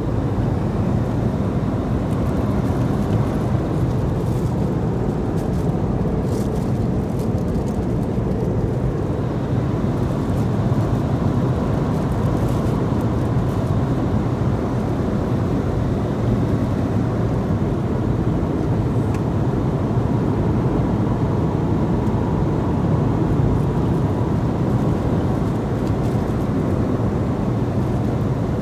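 Airliner cabin noise in flight: a steady, even low rush of engines and airflow.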